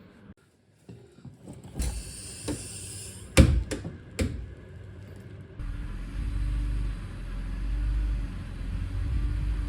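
A couple of sharp knocks, the loudest about a third of the way in, then from a little past halfway a car engine running steadily with a low rumble.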